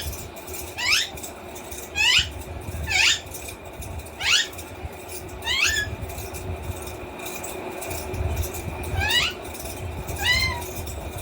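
A parrot giving a string of short calls, each one quickly sliding down in pitch, about one a second, with a pause of a few seconds in the middle; eight calls in all.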